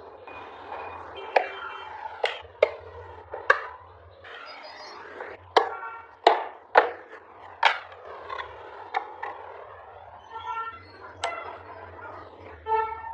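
Irregular sharp taps and knocks of hand tools on wood, roughly one to two a second, with brief squeaky scraping tones between some of the strikes.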